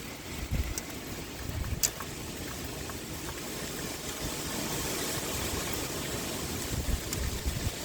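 Steady rain hiss with wind gusting in uneven low rumbles, and a single sharp tick about two seconds in.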